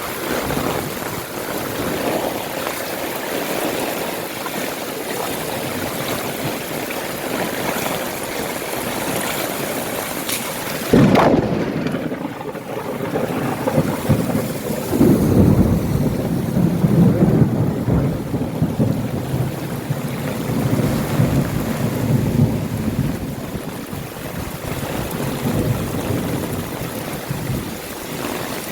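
Heavy rain falling steadily. Partway through comes a sudden sharp thunderclap, and a few seconds later a low rolling rumble of thunder that lasts several seconds before fading back under the rain.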